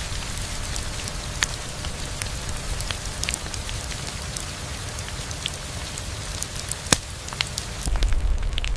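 Steady rain falling, with scattered sharp drops and one louder snap about seven seconds in. A low rumble swells near the end.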